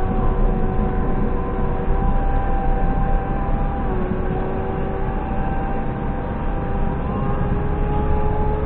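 JCB 3CX backhoe loader's diesel engine running with a steady drone; its pitch dips slightly about four seconds in and climbs again near the end.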